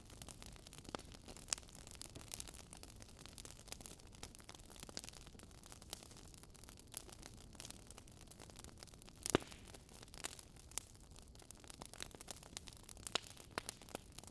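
Wood fire crackling: irregular small pops and snaps over a low hiss, with one sharper pop about nine seconds in.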